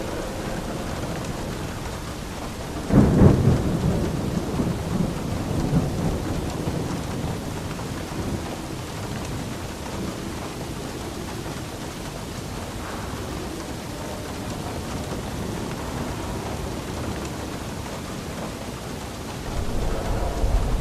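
Steady rain with thunder: a sharp clap about three seconds in that rolls away over several seconds, and another low rumble building near the end.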